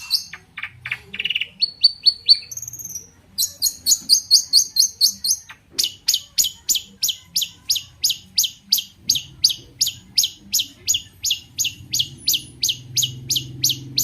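Long-tailed shrike (cendet) singing. A quick varied phrase of falling and rising notes opens it, then a long, even string of sharp repeated chirps at about four a second.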